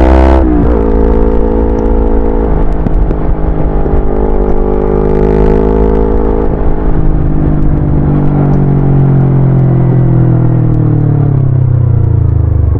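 Yamaha YZF-R25's 250 cc parallel-twin engine under way: revs drop sharply about half a second in, like an upshift, then hold steady for several seconds before slowly falling as the bike slows near the end.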